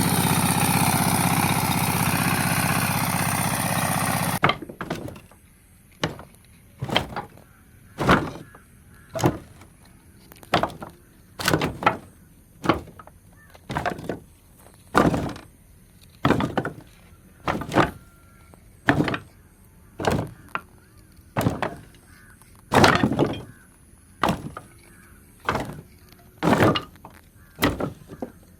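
Music that cuts off abruptly about four seconds in, followed by a steady series of sharp knocks, roughly one a second.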